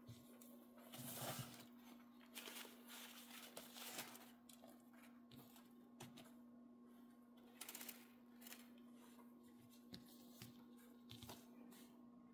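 Near silence: a steady low hum under faint scattered rustles and light clicks, like hands handling something.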